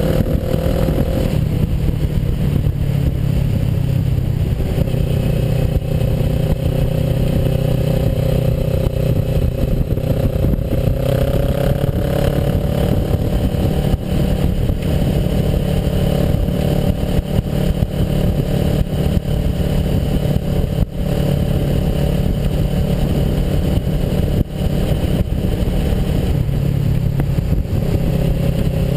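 Kawasaki Versys motorcycle engine running steadily under way, pitch rising a little about twelve seconds in as it picks up speed, over a heavy low rumble with scattered clicks and clatter.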